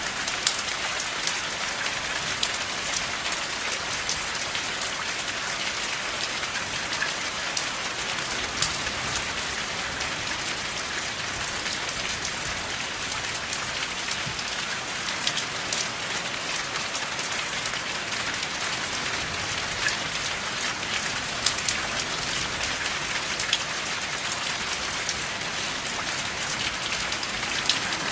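Steady rain falling, with scattered sharp ticks from individual drops striking.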